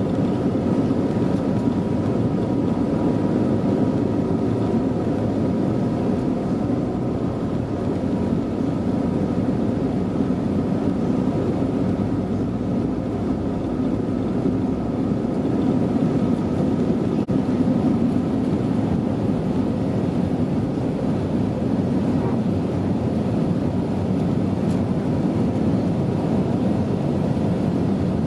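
Steady cabin noise inside an Airbus A320neo airliner: a constant rumble of the engines and airflow, with faint steady whines above it, holding an even level.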